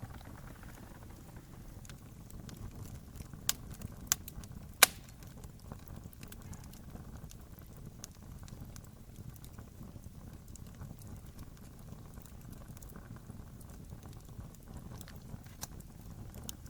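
Wood campfire burning: a steady low rumble of flame with scattered small crackles, and three sharp pops between about three and a half and five seconds in, the last the loudest.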